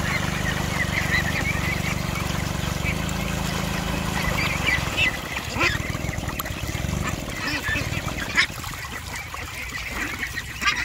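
A flock of domestic fowl calling, with many short overlapping calls. A steady low drone runs underneath and fades out about halfway through.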